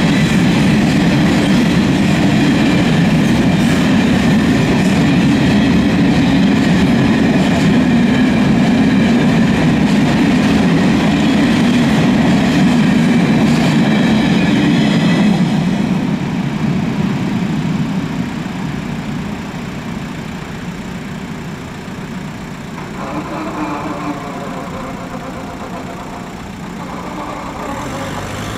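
Freight train of open goods wagons rolling past a level crossing, a steady loud rumble of wheels and wagons. The rumble dies away after about sixteen seconds as the last wagons clear the crossing, leaving a much quieter background.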